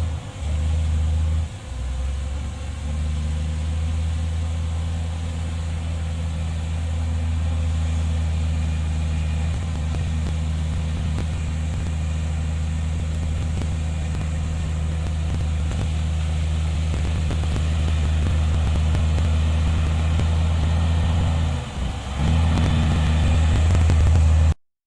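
Heavy diesel engine of earthmoving machinery running steadily with a deep drone. It dips briefly about a second in and again shortly before the end, then cuts off suddenly.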